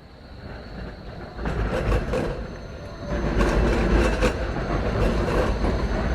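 A train approaching and passing close by, its low rumble growing steadily louder with wheels clattering over the rails.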